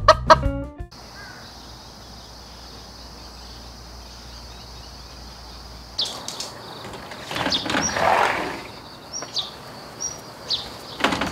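Outdoor ambience with short, high bird chirps now and then. About two seconds after it starts there is a louder rustling, sliding swell as a patio sliding door is opened and people step out. A short musical jingle ends in the first second.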